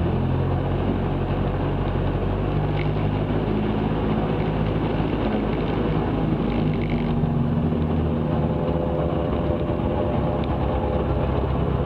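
Cessna 162 Skycatcher's four-cylinder Continental O-200 engine and propeller running steadily at low power, heard from inside the cockpit, with a slight shift in its pitch about seven seconds in.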